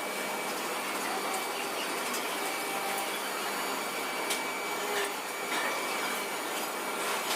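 Steady mechanical noise of a running machine, with a faint steady high tone and a few light clicks.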